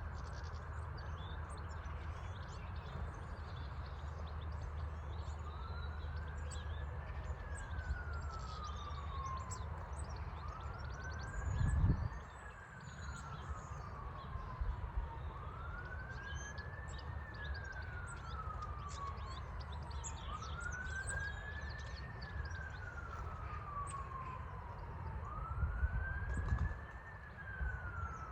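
Emergency-vehicle siren in wail mode, slowly rising and falling about every five seconds. It starts some five seconds in and switches to a fast yelp at the very end. Birds chirp faintly over a low rumble, with two dull thumps.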